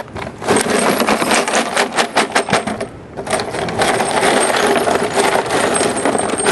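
Loose rust scale and debris rattling around inside a metal motorcycle gas tank as it is shaken out. Rapid clicking and clattering for the first few seconds settles into a steady, gritty rattle.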